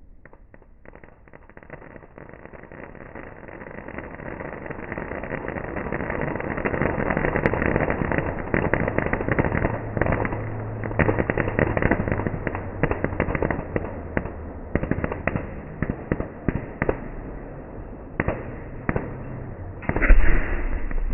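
Kerala temple 'bedi' fireworks: a dense, rapid barrage of firecracker bangs that builds over several seconds, then thins to scattered cracks, with one louder blast near the end.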